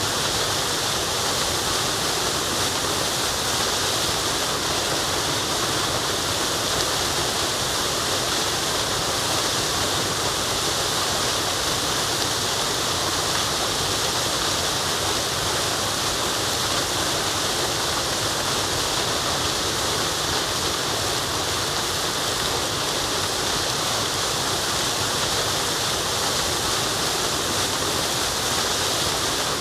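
Waterfall rushing steadily, a dense even hiss of falling water with no change in level.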